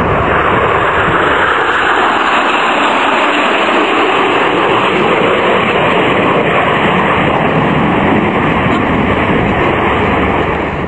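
Jet aircraft engine noise: a loud, steady rushing roar.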